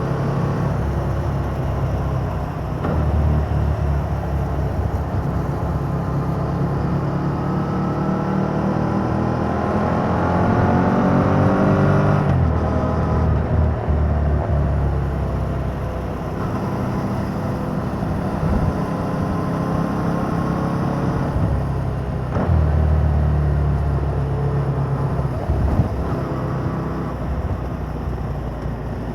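Yamaha MT-07's parallel-twin engine through its stock exhaust, heard on the move: the revs climb steadily for a few seconds, then drop sharply at a shift about twelve seconds in. The engine pulls harder again twice, about three seconds in and near twenty-two seconds.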